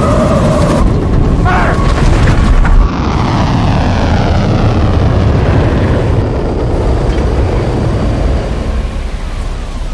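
Film sound of the Ranger spacecraft touching down hard on shallow water. A loud, dense rumble rises to a heavy impact about three seconds in, then a hiss of spray and falling engine noise fades away.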